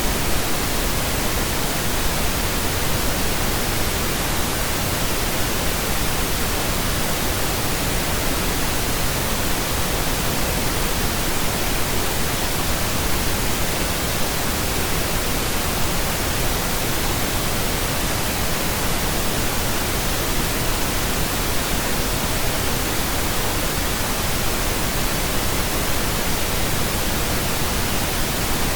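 Pink noise: a steady, unchanging hiss spread evenly from low to high pitches.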